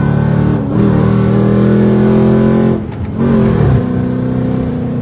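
Dodge muscle car V8 engine running hard under throttle. Its note breaks briefly twice, just before a second in and just before three seconds in, then picks up again.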